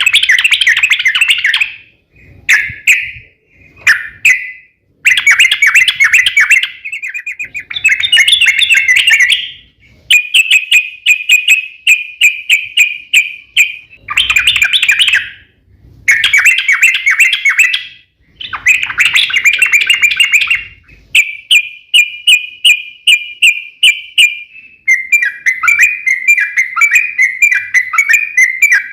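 Yellow-vented bulbul in full song: loud, bubbly chattering phrases of one to three seconds with short pauses between them. Near the end these give way to a long unbroken run of quick, falling repeated notes.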